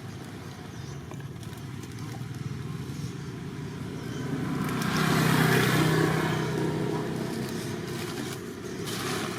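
A motor vehicle's engine passing by: steady running that grows louder to a peak about five seconds in, then fades, with a smaller swell near the end.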